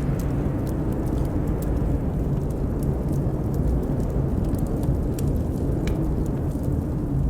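Blizzard wind blowing in a steady low rumble, with the sparse crackles and pops of a wood fire in a fireplace over it.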